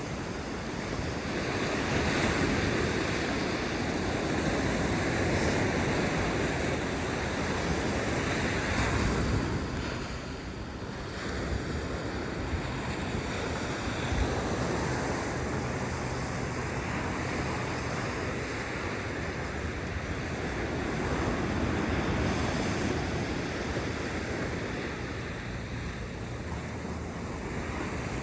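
Ocean surf breaking and washing on a sandy beach, swelling and easing as waves come in, with wind buffeting the microphone.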